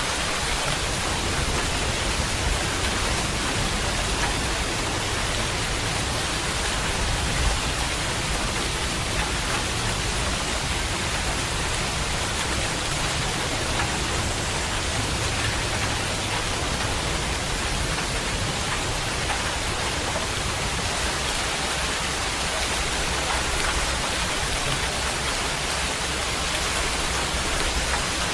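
Steady rain falling, a dense, even hiss of water that holds at the same level throughout.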